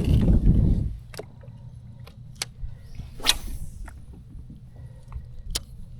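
A low rumble that dies away about a second in, then a handful of sharp clicks and knocks spread a second or so apart, one about three seconds in louder than the rest.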